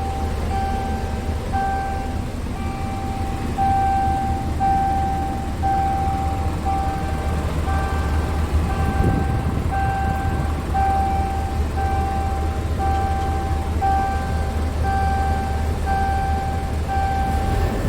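Scania P truck's diesel engine idling as a low rumble, under a repeating electronic warning beep, about two a second, each beep long with only short gaps between.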